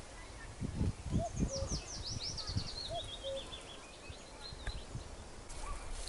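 Wild birds singing. One gives a fast run of high notes falling in pitch; another gives a low two-note call, a higher note then a lower one, twice. Dull thumps come about a second in, and a short rustle near the end.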